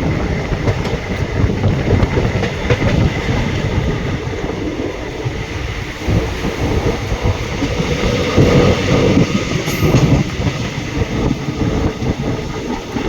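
Train running along the track: a steady, loud rumble with faint clicks of the wheels over the rails.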